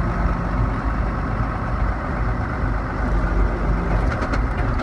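John Deere 7400 tractor's six-cylinder diesel engine running steadily, heard from the operator's seat.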